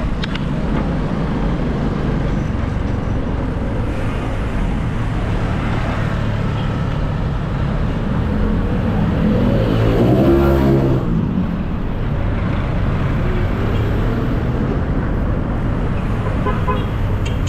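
Steady city street traffic: engines and tyre noise all around. A motor vehicle passes close about ten seconds in, its engine note swelling and then falling away.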